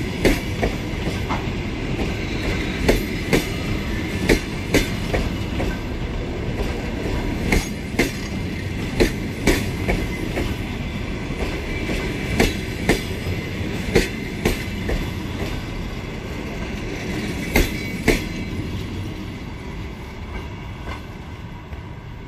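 Train rolling along the track, its wheels clicking sharply over rail joints and points at uneven intervals over a steady rumble. The sound fades near the end.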